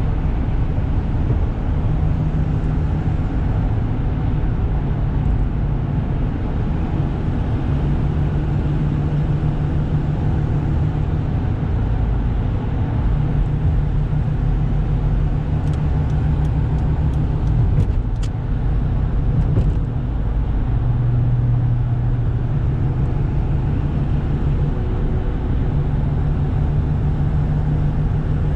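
1995 Toyota Granvia's 1KZ-TE three-litre turbo diesel engine pulling the van along the road, with steady road noise; the engine note steps up and down in pitch a few times as speed changes. A short run of faint clicks a little past halfway.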